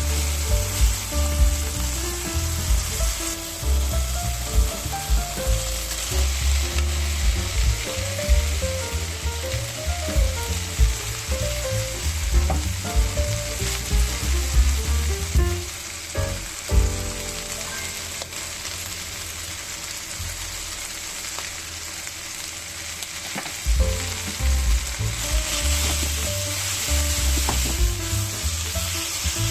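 Napa cabbage and bacon sizzling in a frying pan as they are stir-fried, a steady hiss with occasional stirring. Light background music with a low beat plays alongside.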